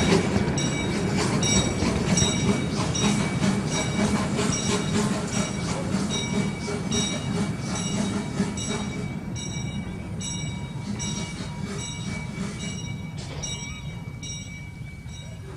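A 2-ft gauge miniature steam train's cars rolling over rail joints, with a regular click about twice a second and a steady high-pitched wheel squeal on the curve, fading steadily as the train moves away.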